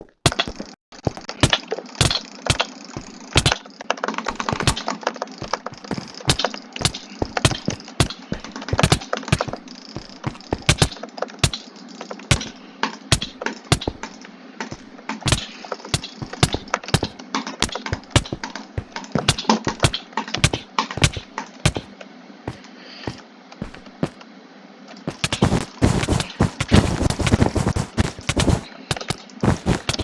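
Sharp clicks at uneven intervals, several a second, over a steady hiss. About 25 s in they turn into a fast, dense flurry of clicking.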